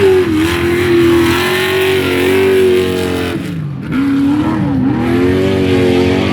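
Race buggy engine running at high revs under throttle. It drops off briefly about three and a half seconds in, then picks up again with the revs rising and falling.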